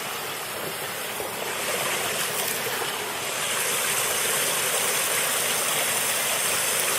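A small waterfall: water rushing out of an opening and splashing down, a steady rush that grows a little louder about halfway through.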